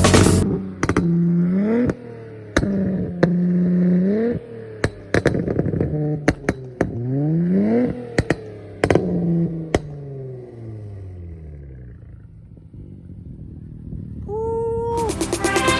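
Car engine revving hard, its pitch climbing and breaking off with sharp cracks several times, then winding down as it slows. A brief steady tone sounds near the end.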